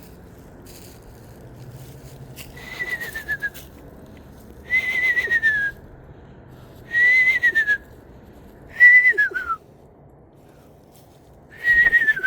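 A person whistling an owl call imitation: five separate notes, each about a second long, held at one pitch and then sliding down at the end, with a breathy hiss behind each note.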